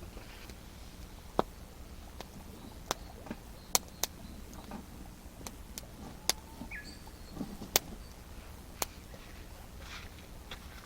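Wood campfire crackling: sharp, irregular pops about a second apart over a low steady background.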